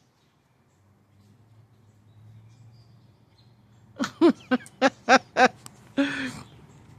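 A person laughing: six short, quick 'ha' sounds about four seconds in, then a longer breathy laugh-out near the end.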